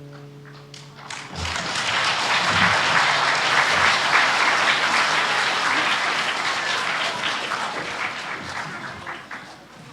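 Audience applauding after a performance. The clapping swells in about a second in and dies away near the end.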